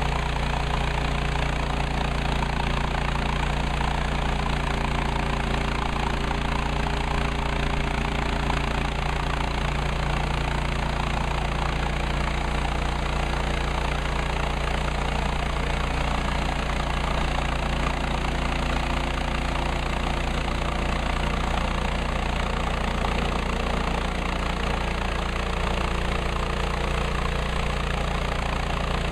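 Woodland Mills HM130 Max portable bandsaw mill's gasoline engine running steadily, with no change in pitch or level.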